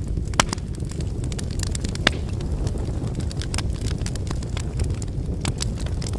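Campfire of burning firewood: a steady low rush of flames under irregular sharp crackles and pops from the wood, the loudest about half a second and two seconds in.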